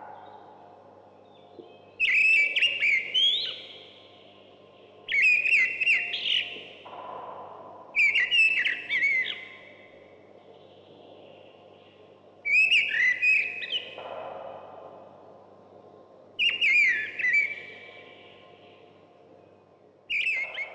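A songbird singing: short phrases of clear whistled notes with quick chirps, repeated every three to four seconds, six times over.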